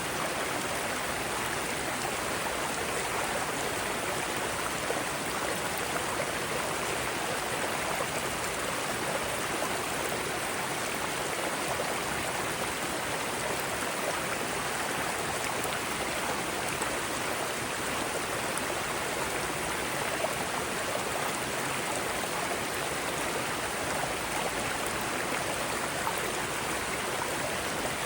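Mountain stream flowing over rocks, a steady rush of water with small splashes.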